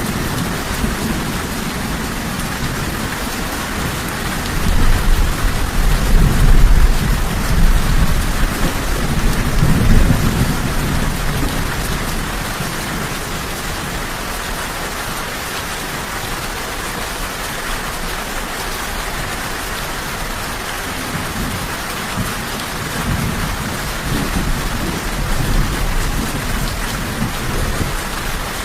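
Steady heavy rain with rolling thunder: a long low rumble swells about five seconds in, peaks twice over the next few seconds and fades, and a weaker rumble returns near the end.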